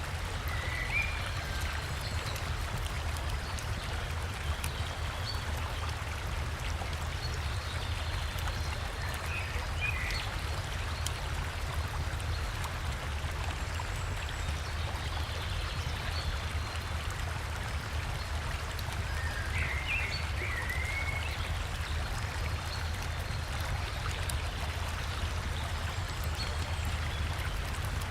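River water and a small waterfall rushing steadily, with short bird chirps a few times: about a second in, around ten seconds, around twenty seconds and again near the end.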